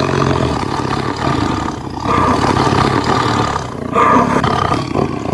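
A large animal roaring: a loud, rough roar in three long stretches with brief breaks about two seconds in and near the end.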